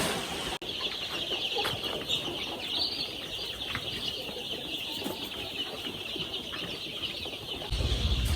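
Many young chicks peeping at once, a dense high chatter of short calls. A low steady rumble comes in near the end.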